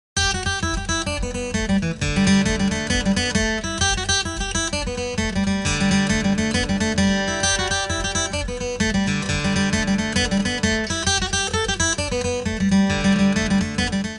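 Music: fast acoustic guitar playing, quick plucked and strummed notes over a steady low beat.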